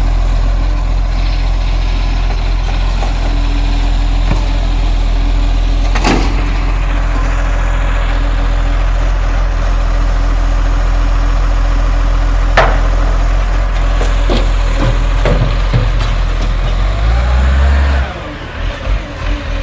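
Garbage truck's diesel engine running steadily, with sharp metallic clunks, two single ones and then several close together. Near the end the engine note rises and then drops off suddenly.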